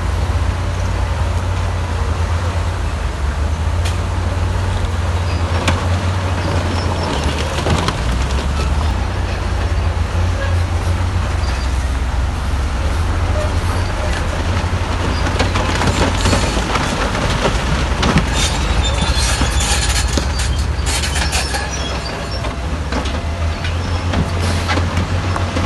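Heavy diesel earthmoving machinery running steadily under load, with a spell of metallic clanking and rattling in the second half.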